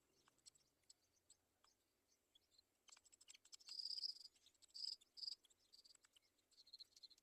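Faint, high-pitched insect chirping, cricket-like, coming in short repeated pulses from about three seconds in, with scattered soft clicks before it.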